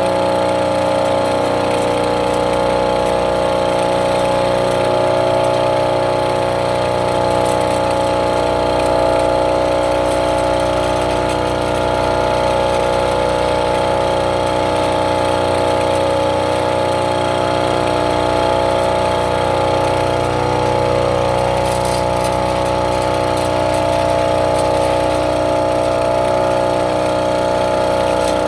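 Small engine of an agricultural monorail carrier running steadily at an even speed. It is a used replacement engine with a new transmission, running smoothly.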